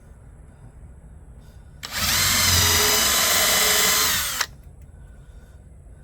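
Electric power drill run once for about two and a half seconds, a steady whine starting about two seconds in and stopping abruptly.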